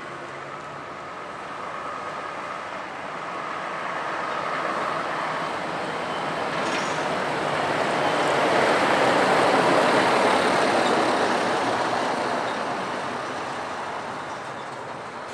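A heavy vehicle passing by: a steady rush of noise that builds to a peak about ten seconds in, then fades away.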